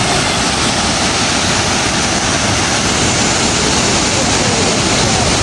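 Steady, loud rushing noise with no breaks or separate events.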